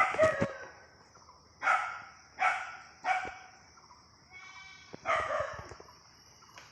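A dog barking repeatedly, about five barks spaced a second or more apart, with a short whine in between.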